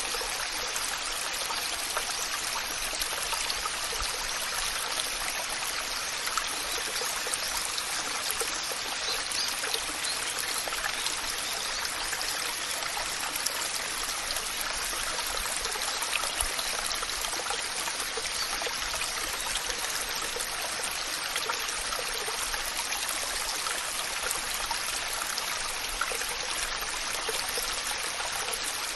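Waterfall: water rushing and splashing steadily, an even bright hiss with little low rumble.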